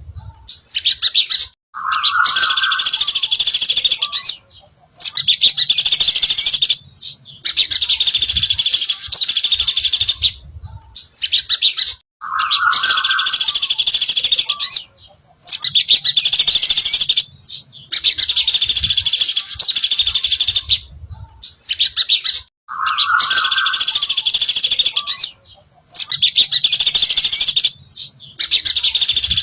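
Sogon dasi trotol songbird singing: high, fast, trilling phrases of one to three seconds repeated with short pauses between them. Three times a lower note opens a phrase, about every ten seconds.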